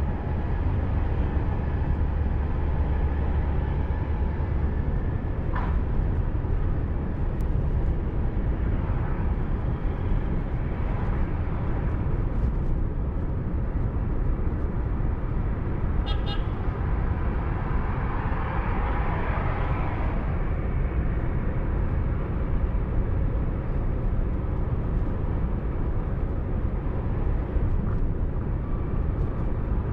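Car driving along a road, heard from inside through a dashcam: a steady low rumble of engine and tyres, with traffic horns sounding now and then.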